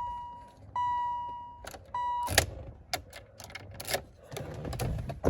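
1986 BMW 528e's warning chime: a single clear tone repeating about once a second, each note fading away. The last note is cut off short, and a series of clicks and knocks follows.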